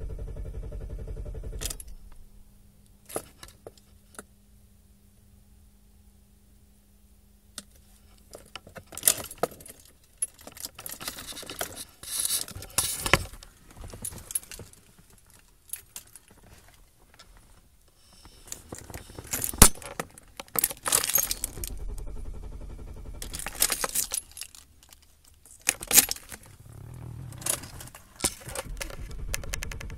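Keys on a key ring jangling and clicking in several separate bursts. A low rumble comes at the start and returns in stretches later on, and a steady low hum runs for several seconds near the beginning.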